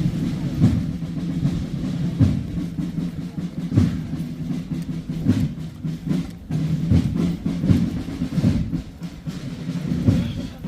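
Processional drums beating a slow, steady march, one heavy beat about every second and a half over a continuous low drumming.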